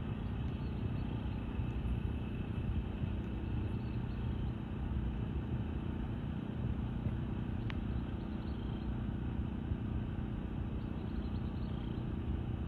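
Engine running steadily, a low, even drone.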